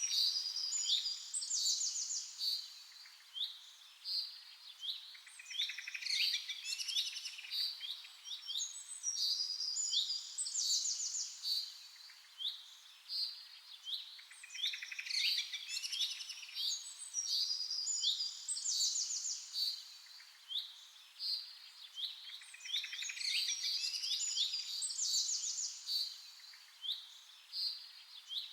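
Several birds chirping and singing over one another: quick high chirps and rapid trills that come in bursts every few seconds, with brief quieter gaps between.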